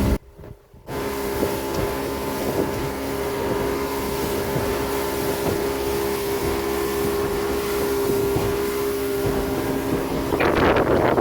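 Boat motor running at a steady pitch, with wind buffeting the microphone; the wind rush grows louder near the end.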